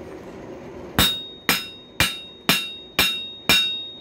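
Hand hammer striking hot coil-spring steel on an anvil, forging the screwdriver blank. Evenly spaced blows about two a second begin about a second in, each with a bright ringing tone from the anvil. A steady low hum sits under the first second.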